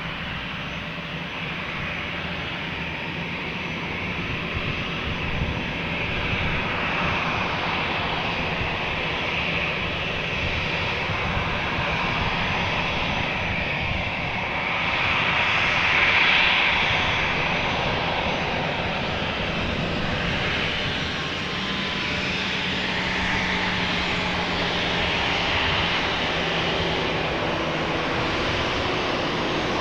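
Jet airliner passing near the airport with its engines running, a steady roar that builds slowly, is loudest about halfway through, and then holds.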